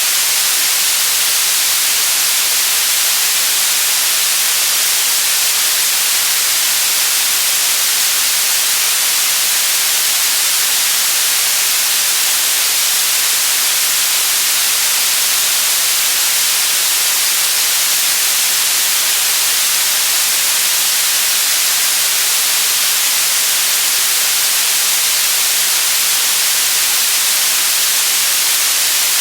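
White noise sound effect: a loud, steady, unchanging hiss that is strongest in the high frequencies.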